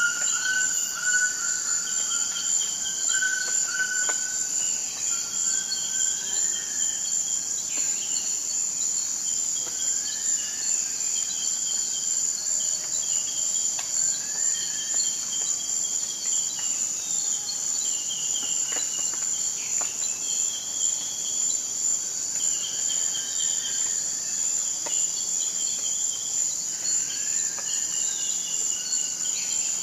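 Forest night-style ambience: a continuous high-pitched insect chorus, like crickets, with short whistled animal calls repeating throughout, some level and some rising.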